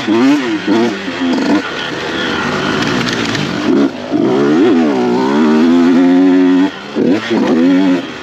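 Dirt bike engine being ridden hard, its pitch rising and falling quickly as the throttle opens and closes. Past the middle it holds one long pull, then cuts off sharply, and there are two or three short blips near the end.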